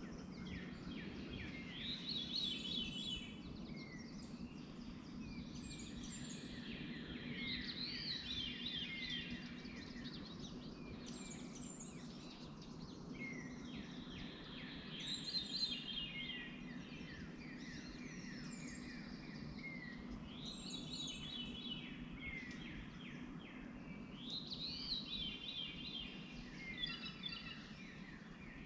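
A bird singing short, repeated song phrases every two to three seconds over a steady low hum.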